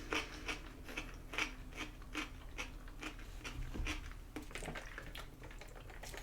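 A person chewing food close to the microphone, about two or three chews a second, fainter and less regular in the second half.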